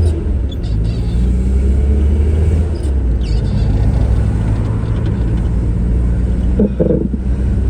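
A car driving, with a steady low rumble of engine and road noise. A voice is heard briefly near the end.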